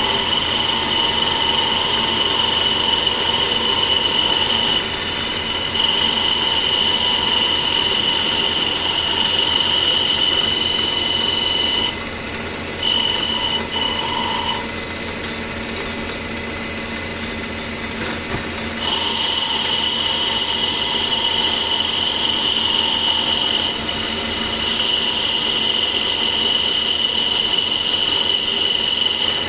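Power tool motor running steadily with a high whine. The whine drops away for a moment about five seconds in, drops away again for several seconds in the middle, and comes back strongly.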